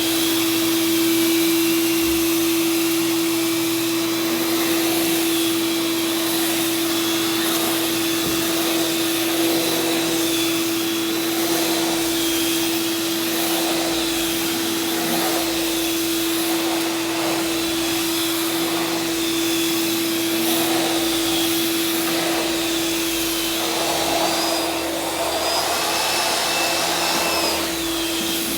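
Vacuum cleaner running steadily over carpet, with a constant motor hum and rushing airflow.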